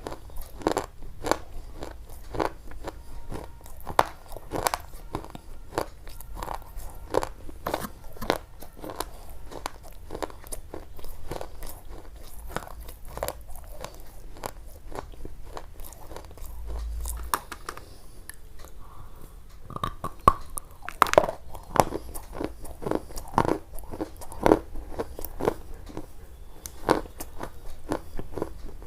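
Close crisp crunching, like something crunchy being bitten and chewed, in irregular crunches about two a second. There is a short pause about two-thirds of the way through, followed by a few louder crunches.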